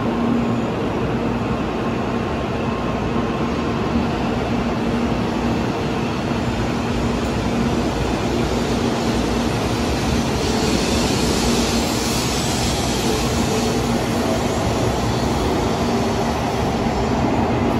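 Tokaido Shinkansen train running along the platform: a steady, loud rumble with a low hum, the hiss swelling about ten seconds in.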